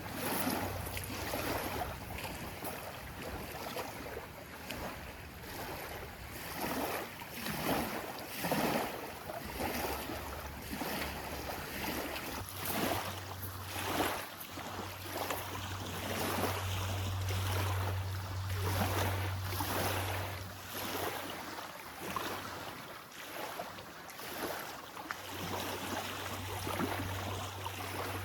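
Lake water lapping and splashing in irregular surges, with wind on the microphone. A low steady hum runs through it, dropping out for a few seconds at a time.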